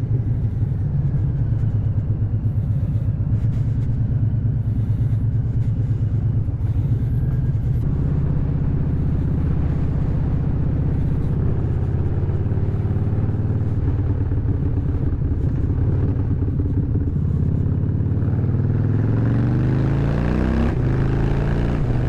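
Harley-Davidson V-twin motorcycle exhaust under way, running steadily at cruise. Near the end the revs climb hard, dip briefly as if through a gear change, and climb again under hard acceleration.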